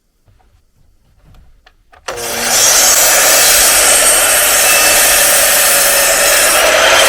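Electric circular saw starting suddenly and cutting through a wooden framing block for about five seconds, then winding down near the end. A few faint handling knocks come before it.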